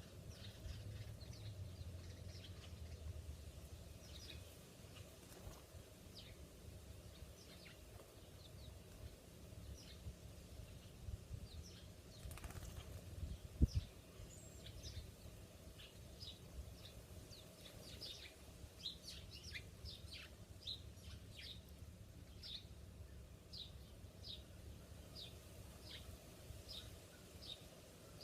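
Small birds chirping in short, repeated high notes, more thickly in the second half, over a low background rumble. A single sharp thump comes about halfway through.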